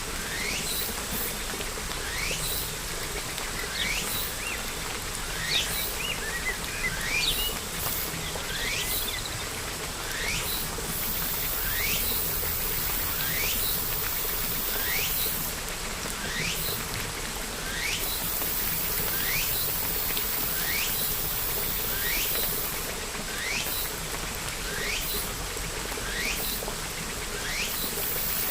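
A bird repeating a short rising call about once a second, with a brief flurry of extra chirps about a third of the way through, over a steady hiss of rain.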